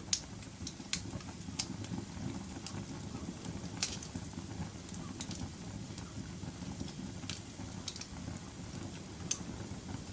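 Fireplace fire burning, with a low steady rumble of flames and sharp crackles and pops at irregular intervals. The loudest pops come just at the start and about four seconds in.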